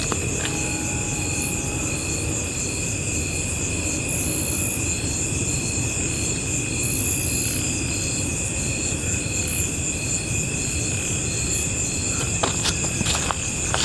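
Night chorus of crickets and other insects: several steady high trills at different pitches, one of them chirping in even pulses about one and a half times a second. A few faint knocks near the end.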